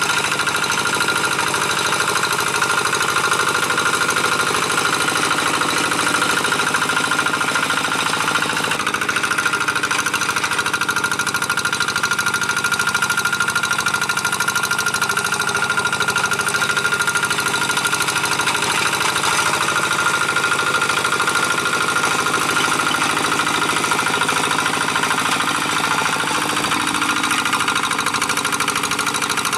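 Single-cylinder diesel engine of a G1000 two-wheel hand tractor running steadily under load with an even, fast clatter while it pulls a moldboard plough through dry paddy soil, a steady high whine running through it.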